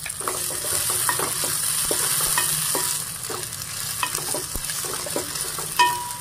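Ginger-garlic paste sizzling in hot oil with fried onions and green chillies in an aluminium pressure-cooker pot, stirred so that the spoon scrapes and clinks against the pot about twice a second. Near the end, a ringing tap on the pot.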